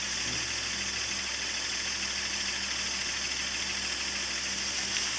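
Car engine idling steadily with a low hum, under a steady hiss.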